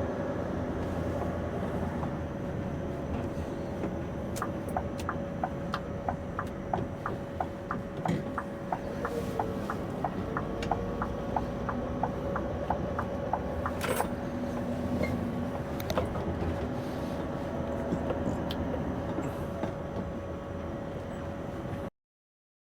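Scania V8 lorry engine idling, heard from inside the cab, with a steady tone over the hum. A regular ticking about twice a second runs through the middle, with a few louder clicks. The sound cuts off suddenly near the end.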